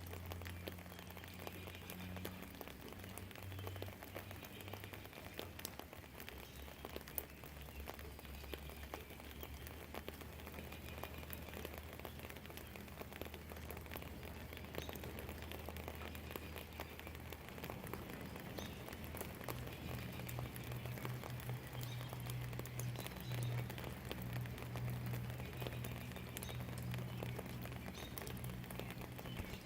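Steady rain pattering and dripping, with many small sharp drop ticks. A low distant rumble sits beneath it and grows louder in the second half.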